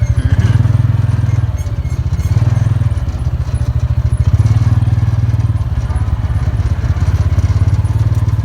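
An engine running with a fast, even low throb that swells and eases every second or two.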